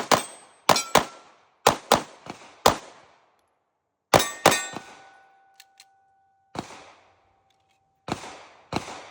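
Pistol shots from a chunk-ported Atlas Hyperion 2011 fired in quick strings: about a dozen shots in groups, with a pause in the middle. A steady metallic ringing hangs for a few seconds after one group.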